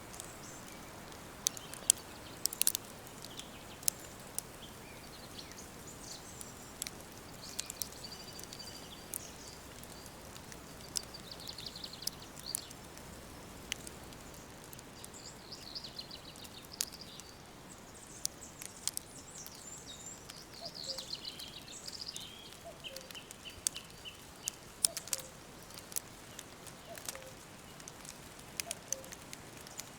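Woodland songbirds singing: several short trilled phrases and, a little past the middle, a quick run of repeated notes, over a steady faint hiss. Sharp short clicks are scattered throughout.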